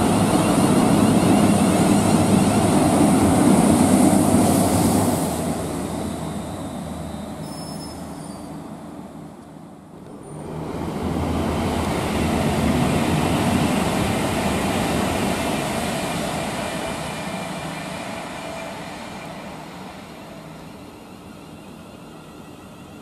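Two trains passing in turn: the rumble of the first is loud for about five seconds and then fades. About ten seconds in a second train, a Class 350 Desiro electric unit, rises and dies away.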